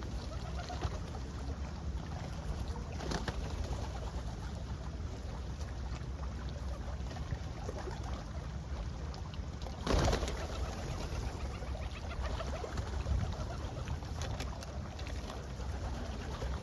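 Pigeons cooing over a steady low background rumble, with one short, louder sudden noise about ten seconds in.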